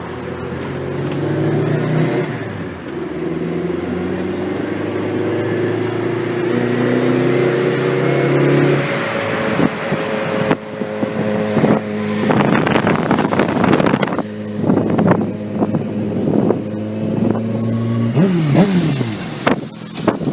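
Suzuki GSX-R 600 inline-four with an Akrapovic full exhaust running, its engine note stepping up and down in pitch. About halfway through comes a stretch of rapid sharp crackles lasting several seconds, and near the end a short falling note.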